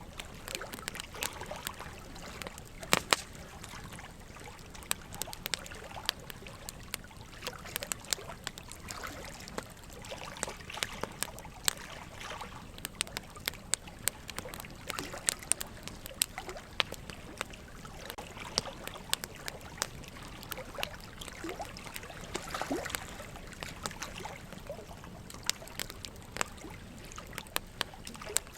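Burning wood logs crackling, with frequent irregular sharp pops, one of the loudest about three seconds in, over a steady trickle of running water.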